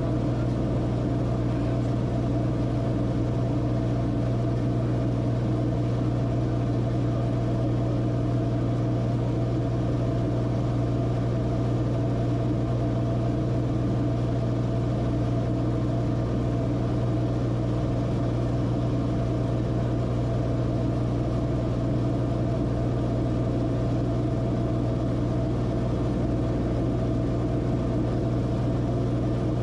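Cessna Corvalis TTX's engine and propeller droning steadily as heard in the cockpit, a constant low hum that does not change.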